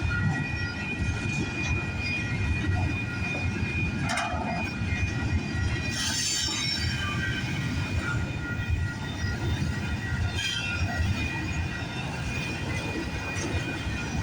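Freight train cars rolling past with a steady low rumble. Steel wheels squeal in several held high tones, and a few short clanks and screeches are heard about 4, 6 and 10 seconds in.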